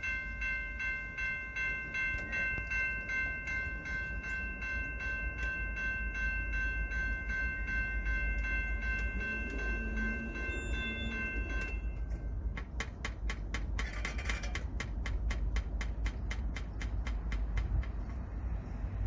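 Train passing with a steady rhythm of wheel clicks over the rail joints, the clicks coming faster after about twelve seconds. A steady high ringing tone sounds through the first twelve seconds and then stops.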